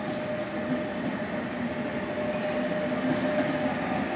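Electric passenger train running, a steady rumble of wheels on rail with a faint constant whine over it, heard from on board as the train moves off along the platform.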